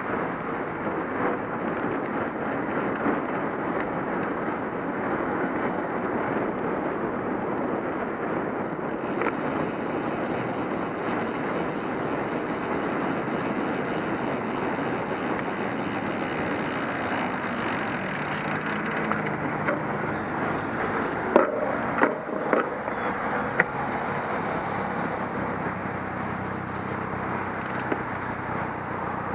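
Steady rush of wind and tyre noise while riding a cyclocross bike, with a brighter hiss for a stretch in the middle and a few sharp knocks a little past two-thirds of the way in.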